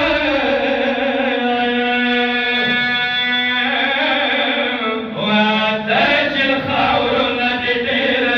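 A man's voice chanting a Pashto mourning rubai in long, drawn-out held notes, the pitch changing twice, with a brief break about five seconds in.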